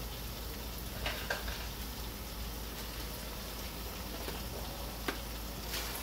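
Bird-meat bhuna curry sizzling as it fries down in oil in an aluminium pot, a steady crackle with a few small pops.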